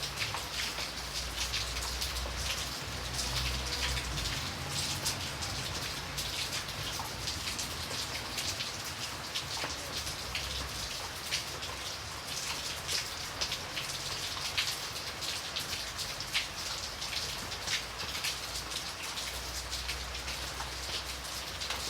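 Steady rain falling, with many individual drops heard as sharp ticks over the continuous hiss. A low rumble sits under it near the start and again near the end.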